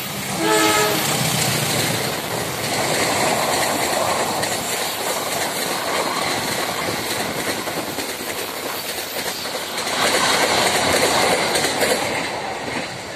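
Diesel-hauled passenger train passing close by: a brief locomotive horn blast about half a second in, then the continuous rush and clatter of the coaches' wheels on the rails, swelling again near the end.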